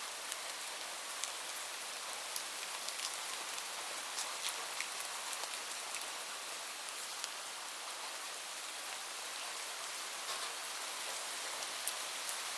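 Steady rain falling, a constant hiss with individual drops pattering sharply here and there.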